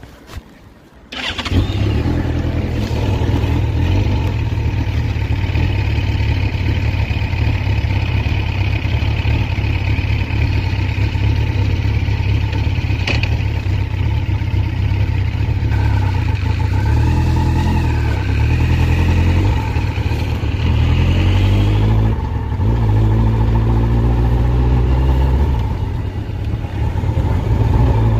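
Yamaha FZS1000 Fazer's inline-four engine running as the motorcycle is ridden, coming in loudly about a second in, its revs rising and falling through the gears.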